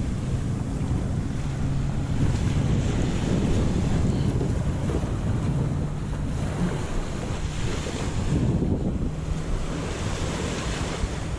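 Wind buffeting the microphone in a steady low rumble, over the wash and slosh of waves on open water around a sailing kayak.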